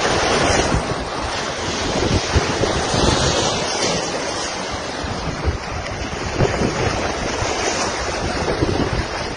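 Steady loud rushing noise of storm wind and water, with irregular low gusty rumbles buffeting the microphone.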